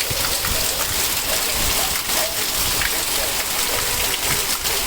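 Heavy rain falling steadily: a dense, even hiss with countless drops striking surfaces.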